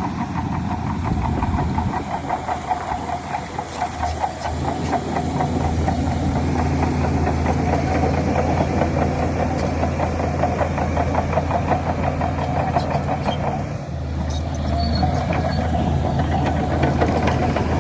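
Heavy diesel engine of a Shantui DH17C3 bulldozer running steadily with a fast, even beat. The note drops away briefly about three quarters of the way through, then picks up again.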